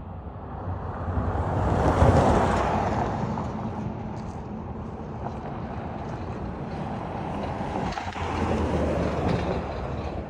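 A freight train rolling slowly past, a steady rumble of wheels on the rails that is loudest about two seconds in and swells again near the end.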